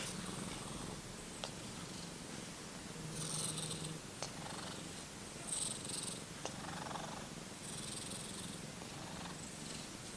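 Domestic cat purring steadily, with a few soft breathy rustles now and then.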